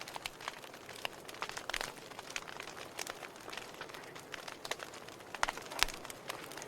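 Wood fire of burning logs crackling, with irregular sharp pops over a soft steady hiss; the loudest pops come near the end.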